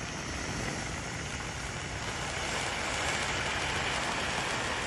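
A lit firework giving off a steady rushing hiss that grows gradually louder, with no bangs.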